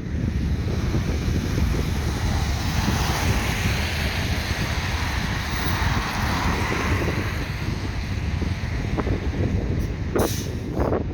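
Road traffic: a vehicle passing on the street, swelling and fading over several seconds, over a steady low wind rumble on the microphone. Two short hissing gusts come near the end.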